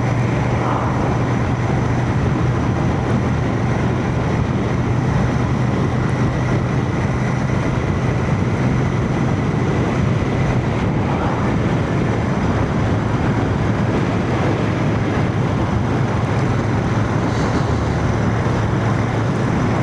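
Royal Enfield Shotgun 650's parallel-twin engine running at a steady cruise, a constant hum under wind and road noise, heard from a microphone inside a full-face helmet.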